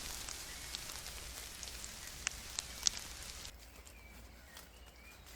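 Dry rustling and crackling with three sharp snaps near the middle, dropping away about two-thirds through.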